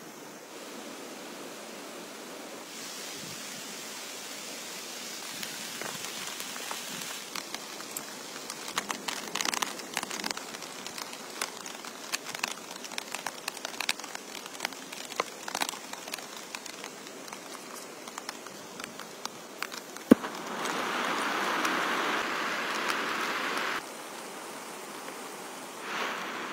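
Heavy rain falling steadily, with many sharp drip ticks through the middle. A single sharp click, then a louder rushing noise for about three seconds near the end that starts and stops abruptly.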